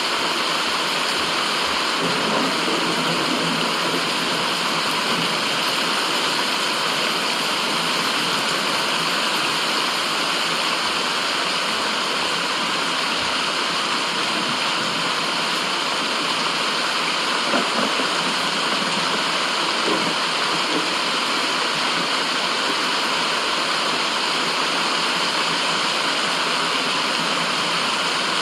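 Steady, unchanging rushing white noise with little deep bass, with a few faint brief irregular sounds underneath, about two seconds in and again around seventeen to twenty seconds.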